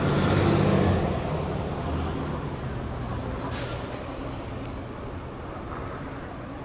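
A heavy diesel vehicle such as a bus or truck runs close by and fades away. Short hisses of air brakes come near the start, and a longer, louder air brake hiss comes about three and a half seconds in.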